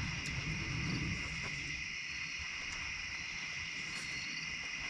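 Steady, unbroken chorus of insects. A faint low rumble sounds through the first second or so.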